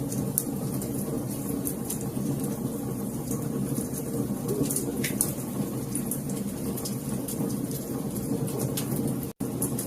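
Wood fire crackling in a fireplace: a steady low rumble with frequent sharp pops and snaps. The sound drops out for a split second near the end.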